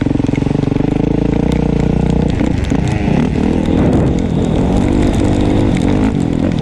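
Dirt bike engine running close to the microphone, steady at first, then revving up and down repeatedly from about two seconds in.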